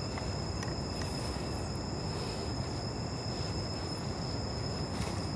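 Steady low rumbling background noise with a faint constant high-pitched whine, without distinct events.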